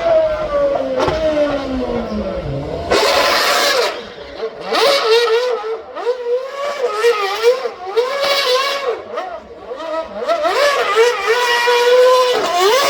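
A performance car's engine run hard. Its note falls away over the first few seconds, a brief rush of noise follows about three seconds in, and then the engine revs up and drops back again and again as it changes gear.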